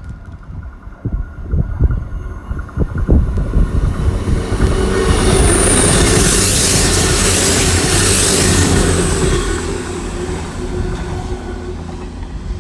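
CrossCountry Class 221 Super Voyager diesel-electric train passing, its engines and wheels on the rails building to a loud peak mid-way and then easing off. A brief high whine comes about five seconds in.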